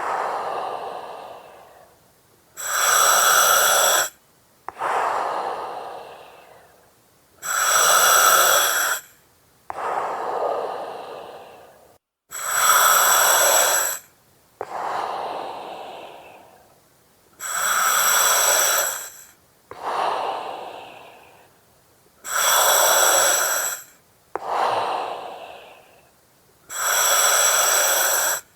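Slow, regular breathing through an oxygen mask: each cycle is a loud, steady hiss with whistling tones from the mask regulator, followed by a softer breath that fades away. There are about six cycles, one every five seconds or so.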